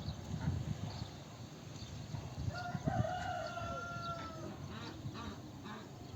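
A rooster crowing once, one long call of nearly two seconds in the middle, falling slightly in pitch at the end, over low background noise.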